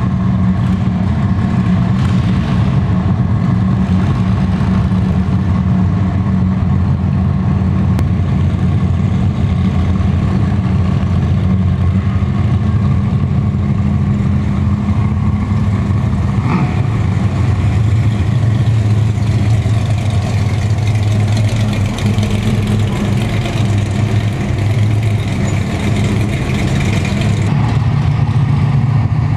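A 1968 Chevrolet Chevelle race car's engine running loud and steady at a low idle, with only slight changes in pitch and no sharp revving.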